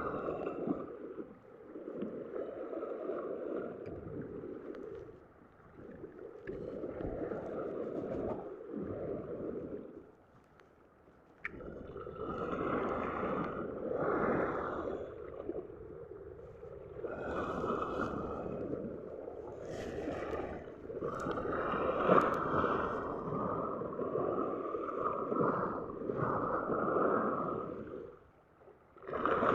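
Black Sea waves washing in and out on the shore, coming in surges every few seconds with short lulls between them.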